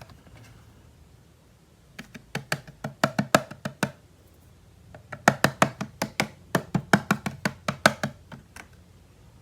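Hard taps on plastic toy parts in two quick runs, about five taps a second: the first runs from about two seconds in for two seconds, the second from about five seconds in for three and a half seconds.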